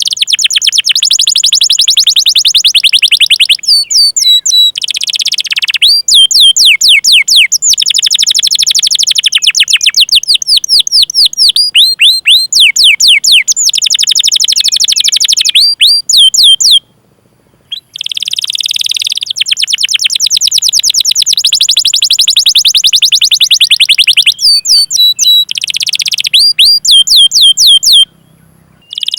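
Canary singing a long, continuous song of very fast rolling trills and repeated chirps that sweep down in pitch. It breaks off briefly twice, about two-thirds of the way through and just before the end.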